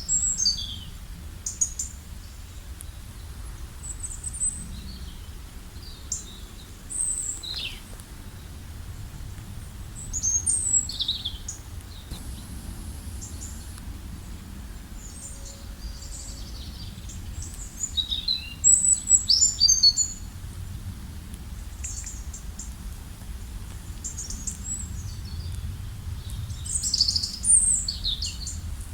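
Several forest songbirds singing and chirping in short high trills and calls, with the busiest bursts about ten seconds in, around eighteen to twenty seconds, and near the end, over a steady low background rumble.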